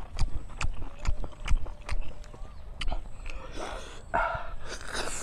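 Close-up chewing and lip-smacking: a run of sharp, irregular wet mouth clicks, with a short breathy mouth sound about four seconds in.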